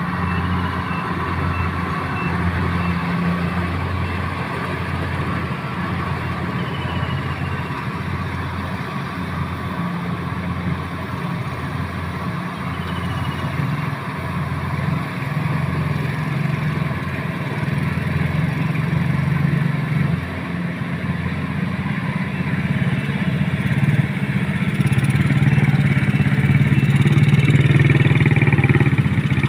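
An engine running steadily, with a slight wavering in its note; it grows louder over the last several seconds.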